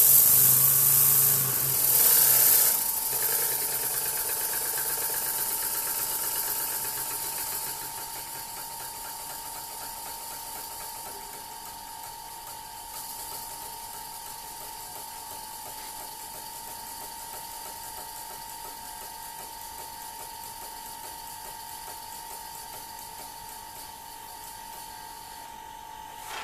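Beam engine running with a rapid, steady mechanical clatter. Loud hissing in the first few seconds fades away by about a third of the way through. A steady high tone sounds throughout.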